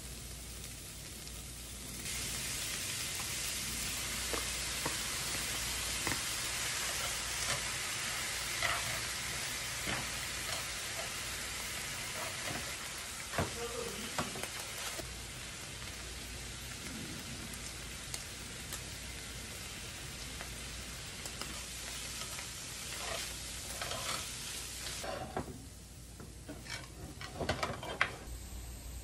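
Ground beef and diced onion sizzling in a nonstick frying pan. The sizzle grows louder about two seconds in, with chopsticks scraping and tapping the pan as the meat is stirred. Near the end the sizzle dies down and a few sharper scrapes of a turner are heard.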